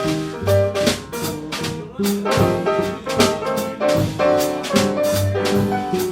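Small jazz group playing live: a drum kit keeps a steady beat with regular cymbal strokes under a bass line and a melody.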